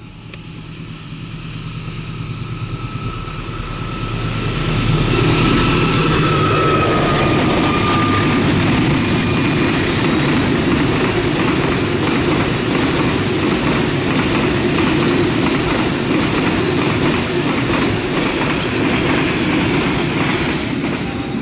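A long cement freight train approaching and passing: a diesel locomotive hum at first, then a steady rumble of wagon wheels with rapid clacking over the rail joints. There is a brief high squeal about nine seconds in.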